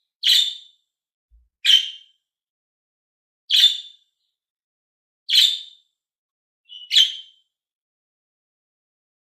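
Budgerigar giving five short, high chirps, spaced about a second and a half to two seconds apart.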